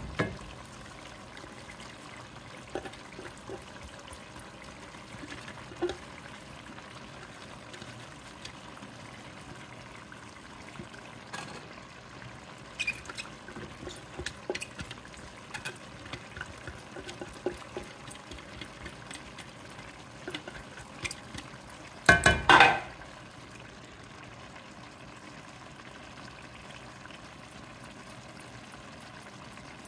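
Sausage, fennel and onion sizzling gently in an enamelled cast-iron Dutch oven, with light taps and scrapes as chopped onion is scraped out of a plastic food processor bowl into the pot. One louder clatter comes about three quarters of the way through.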